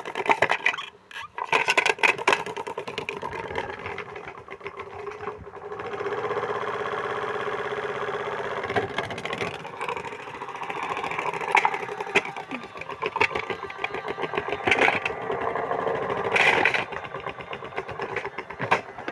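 Washing machine drum running and shaking hard, with a fast, continuous mechanical clatter over a steady hum; it briefly drops off twice early on and then carries on.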